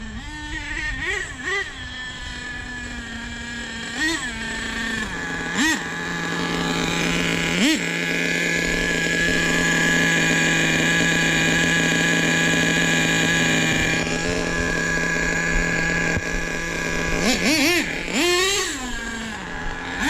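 Nitro RC truck engine running, blipped up in quick short revs a few times, then held at a steady higher speed for about ten seconds before dropping back to idle with a couple more quick revs near the end. The engine is being run while its carburettor mixture is tuned.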